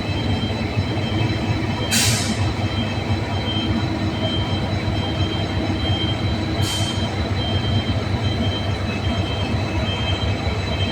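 KTMB Class 25 and Class 24 diesel locomotives running with a steady low engine rumble and a steady high whine. Two short hisses come about two seconds in and again near seven seconds.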